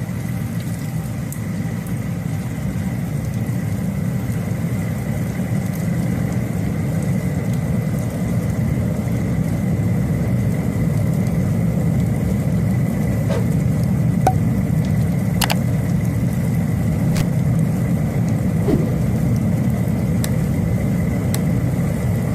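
Steady low rumble throughout, with a faint constant high-pitched tone and a few sharp clicks in the second half.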